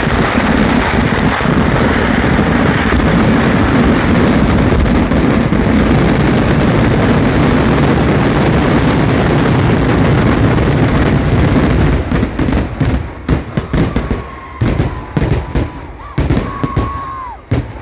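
Fireworks going off in a dense, unbroken rapid-fire barrage of cracker reports; about twelve seconds in it breaks up into separate sharp bangs that come further and further apart.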